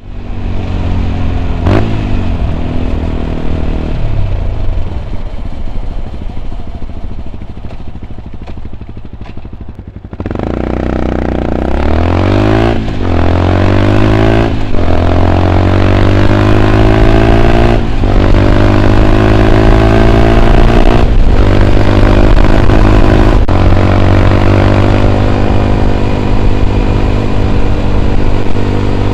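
Yamaha WR 125 X's single-cylinder 125 cc four-stroke through an Arrow exhaust with its dB killer fitted. It runs low and quieter for about ten seconds, then accelerates hard, the pitch climbing and dropping at each of several quick upshifts, and settles into steady cruising near the end.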